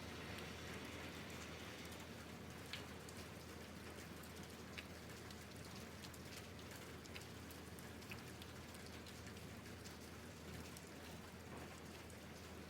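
Light rain falling steadily, with scattered individual drops ticking sharply on a hard surface.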